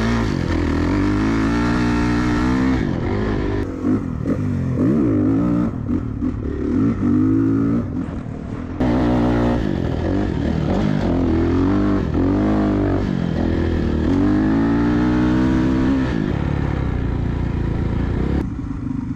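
Dirt bike engine revving up and easing off again and again while riding, its pitch climbing and falling with the throttle and a short lift off the throttle just before the middle.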